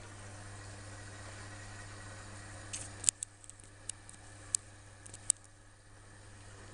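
Electrolux EWS 1045 front-loading washing machine during a wash: a steady hum and hiss that drops about three seconds in, with a quick run of sharp clicks and ticks in the middle.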